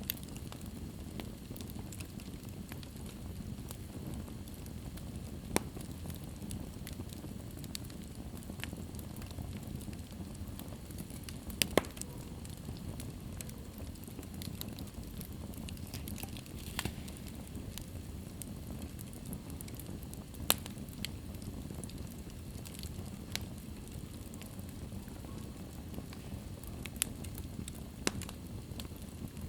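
Wood fire burning in a fireplace: a steady low hiss of flames with scattered sharp crackles and pops, a few louder pops standing out, about a dozen seconds in and again near the end.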